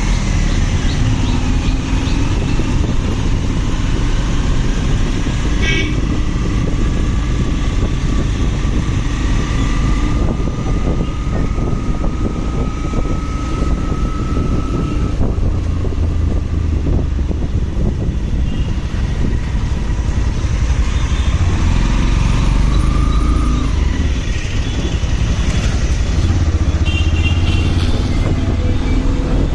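Motorcycle on the move in road traffic: the engine runs steadily under heavy low rumble from wind on the microphone.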